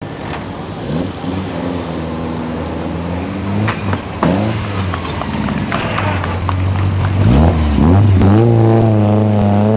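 Skoda Felicia Kit Car 1600 rally car engine idling with short throttle blips about a second in, around four seconds and at about seven seconds. Near the end the revs rise and hold high as the car pulls away.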